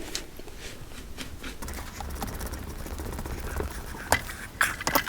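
Scattered light knocks and clicks of metal motorcycle front-end parts being handled, with a few louder, sharper clunks near the end.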